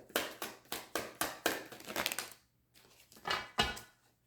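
A deck of tarot cards being shuffled by hand: a quick run of crisp card flicks, about four or five a second, for about two seconds, then a softer rustle or two near the end.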